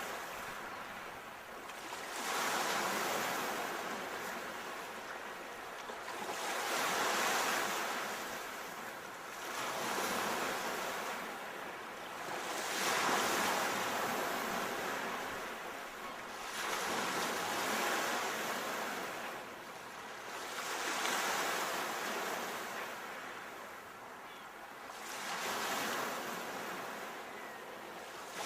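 Ocean waves breaking on the shore, the wash of surf swelling and ebbing in surges every three to four seconds.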